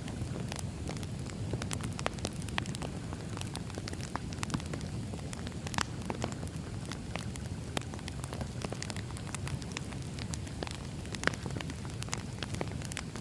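Firewood burning: a steady low rumble of the fire under frequent irregular crackles and pops from the burning logs, with one louder snap near the end.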